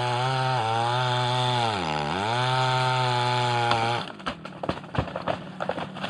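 Chainsaw engine running at high speed; about two seconds in, its pitch sags and comes back up. The engine cuts out about four seconds in, leaving scattered cracks and crackles.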